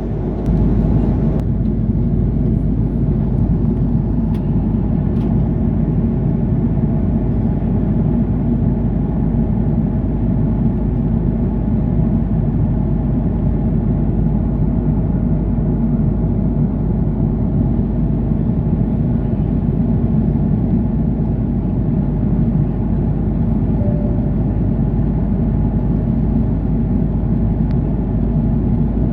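Steady low rumble inside an Airbus A330-300 airliner's cabin in flight: engine and airflow noise, unchanging throughout.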